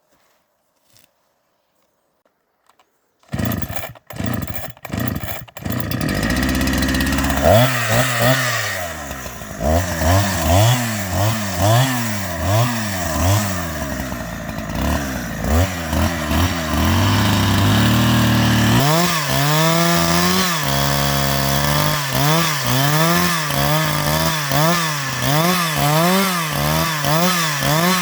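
Chainsaw starting about three seconds in, sputtering a few times before it catches. It then runs loud, its pitch rising and falling again and again as it is revved, settling briefly near the middle.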